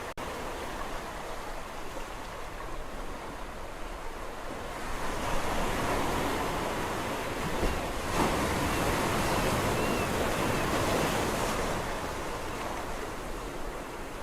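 Ocean surf washing steadily onto a shore. A bigger wave builds about five seconds in, breaks and washes in loudest around eight seconds, then recedes near the end. There is a split-second gap at the very start.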